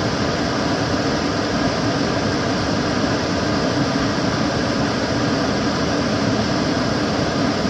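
Kitchen cooker hood extractor fan running steadily, a constant rush of air with a low hum underneath.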